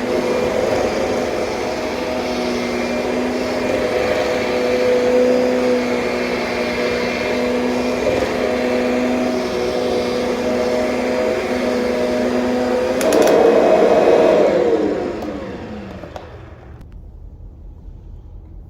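Kirby Sentria upright vacuum cleaner running steadily. About 13 seconds in there is a click, and the motor winds down with a falling pitch as it is switched off.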